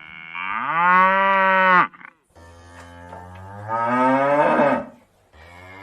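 Cow mooing: two long moos, each rising in pitch and then held, with a third beginning near the end.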